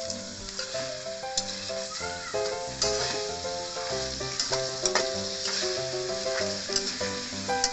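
Mantis shrimp sizzling in a hot wok as a spatula stirs them, with sharp clicks of the spatula against the pan. Background music with a melody plays over the frying.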